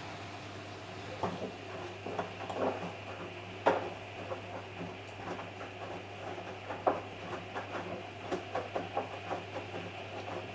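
Samsung Eco Bubble washing machine running: a steady low hum with irregular clicks and knocks throughout, two of them louder than the rest.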